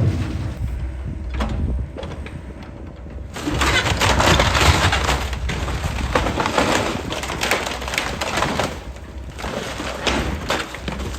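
A John Deere excavator's engine running steadily, with a dense spell of cracking and crunching as material breaks, from about three seconds in until near the end.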